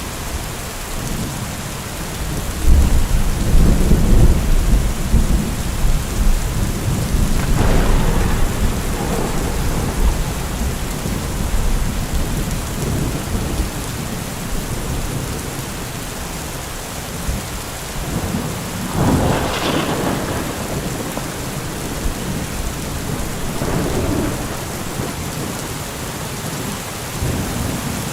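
Heavy rain falling in a steady hiss, with deep rumbling swells: a strong one about three seconds in lasting a few seconds, and shorter surges later, the brightest near the two-thirds mark.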